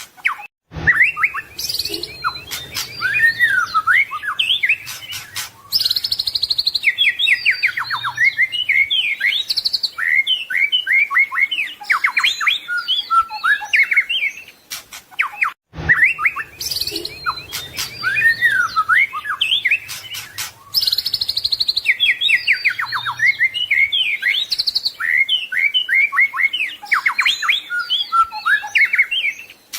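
White-rumped shama (murai batu) singing a fast, varied song of clear whistles, quick trills and rising and falling notes. The same passage of about fifteen seconds plays twice over, with a brief break just after the start and again near the end.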